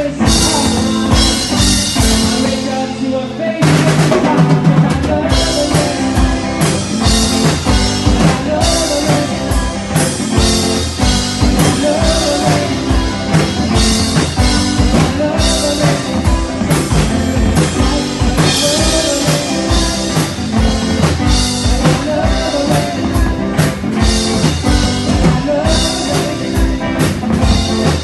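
A band playing with a prominent drum kit: steady bass drum, snare and rimshot hits over the other instruments, with a shift in the music about three and a half seconds in.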